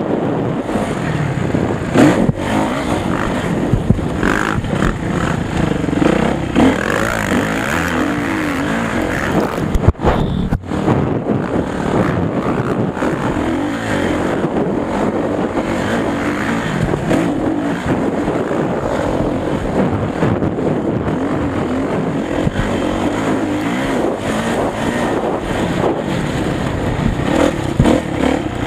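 Motocross motorcycle engine running hard, its pitch wavering up and down as the throttle is worked, with a short dip about ten seconds in.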